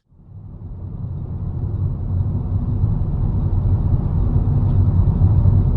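Steady low rumble of a car on the move, as a dashcam picks it up: engine and road noise that fades in over the first couple of seconds and then holds steady.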